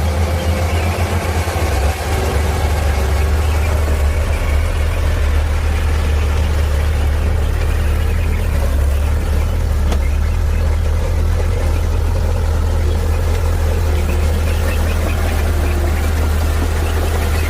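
Heavy diesel engine of earth-moving machinery running steadily with a deep, even rumble; the level dips briefly about two seconds in.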